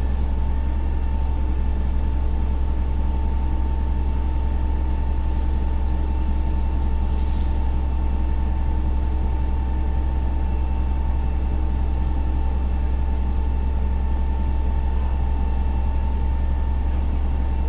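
Fire engine's diesel engine running steadily at idle, heard from the dashcam in the cab: a constant low rumble with a thin steady whine above it.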